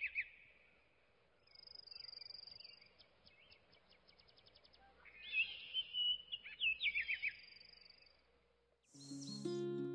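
Birds chirping and calling in quick twittering phrases, with a thin high steady note and a rapid ticking trill between the calls. About a second before the end, a short swish comes in and plucked guitar music starts.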